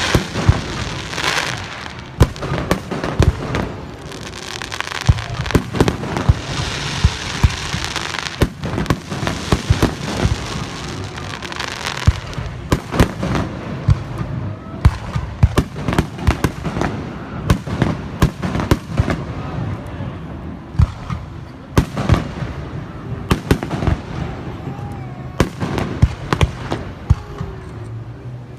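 Aerial fireworks display: a continuous barrage of sharp bangs at irregular intervals, often several a second, with crackling between them.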